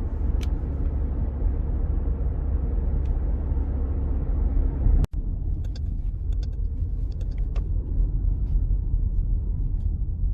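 Car in motion, heard from inside: a steady low rumble of road and engine noise, cut off for an instant about five seconds in, with light scattered clicks in the second half.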